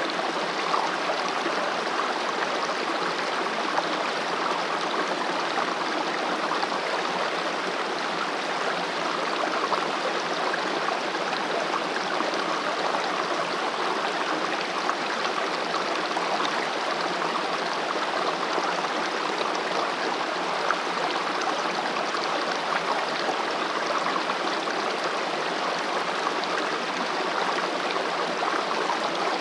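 Valley stream rushing and gurgling over rocks in a steady, unbroken flow.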